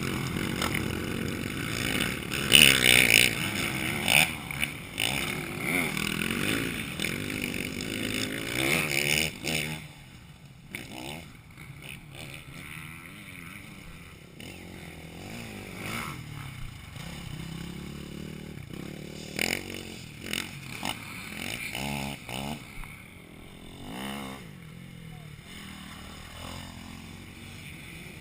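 Motocross bikes revving hard as they ride the track, their engine pitch rising and falling with each gear change and throttle blip. Loud for about the first ten seconds, then fainter and more distant, with occasional bursts of revving.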